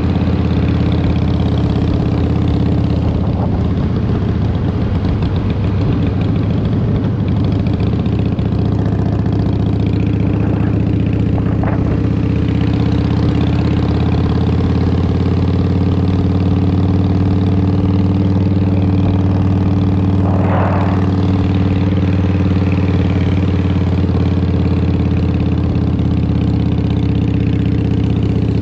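Harley-Davidson Twin Cam 88 V-twin running steadily through Vance & Hines exhaust, with brief rushing noises twice in the middle.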